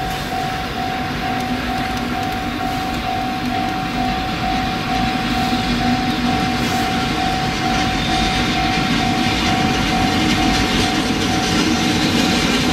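JR Freight EF65 electric locomotive hauling a container freight train, approaching and passing close by, its running noise growing louder as the wagons roll past. Through it a level crossing warning bell rings in an evenly pulsing tone and stops near the end.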